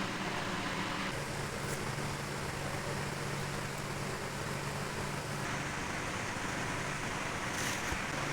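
A steady mechanical hum over a noisy hiss, its low drone dropping slightly in pitch about a second in.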